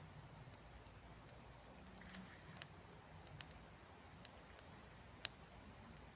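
Small campfire of wet wood and spruce twigs crackling faintly: a few sparse pops, the loudest about five seconds in.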